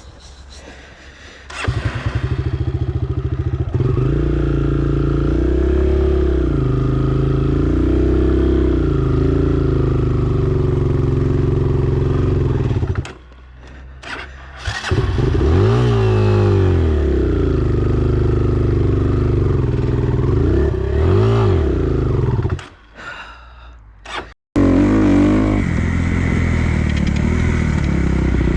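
Dirt bike engine running and revving on a motocross track, the pitch rising and falling as the throttle opens and closes. It drops off twice, about halfway through and again near the end, and cuts out for a moment before picking up again.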